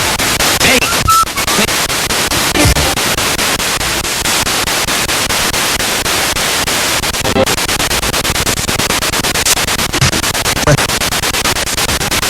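Spirit box sweeping through radio stations: loud hissing static chopped into a rapid, even stutter, with brief snatches of broadcast sound breaking through now and then.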